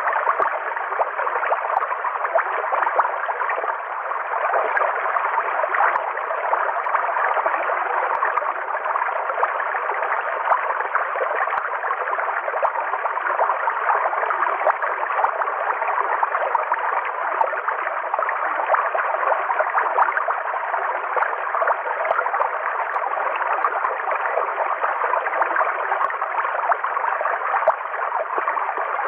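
River water flowing steadily: an even, unbroken rush of running water, centred in the middle pitches with little deep rumble or high hiss.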